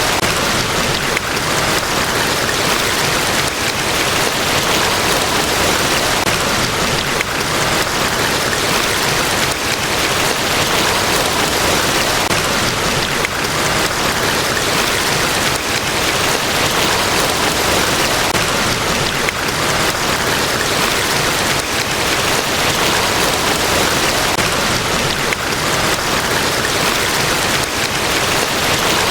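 Niagara Falls, a large waterfall, pouring as a steady, even rush of water that never lets up or changes.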